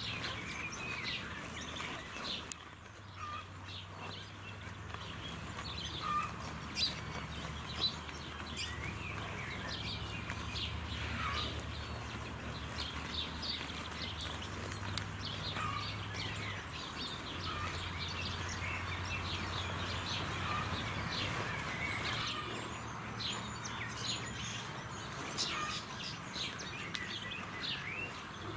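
Small birds chirping and singing continually, many short high chirps overlapping, over a low steady hum.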